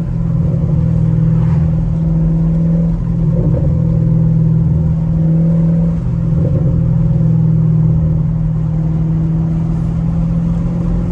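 Straight-piped Chevrolet Camaro SS V8 exhaust droning steadily as the car is driven, with brief changes in the note about three and six seconds in.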